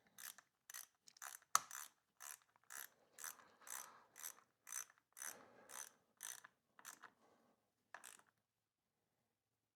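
Hand ratchet wrench clicking in short, even strokes, about two a second, as it tightens the bolt on a motorcycle battery's negative terminal. The strokes stop about seven seconds in, with one last stroke a second later.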